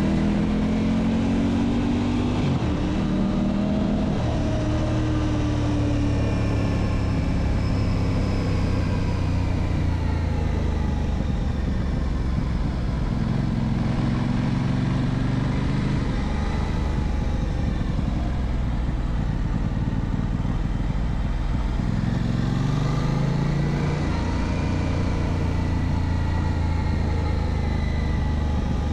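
Aprilia RS 660's 659 cc parallel-twin engine under way, its pitch rising and falling several times as the rider opens and closes the throttle, over a steady rush of wind and road noise.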